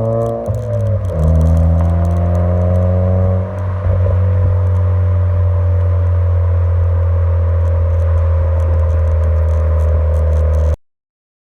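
Suzuki Swift Sport's K14C 1.4-litre turbocharged four-cylinder running through a race-version stainless cat-back exhaust, with a loud, steady drone. The engine note dips just after the start, climbs slowly for a few seconds, then holds steady before cutting off abruptly near the end.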